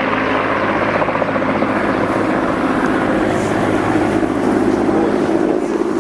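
Helicopter flying close by, its rotor and engine running loud and steady.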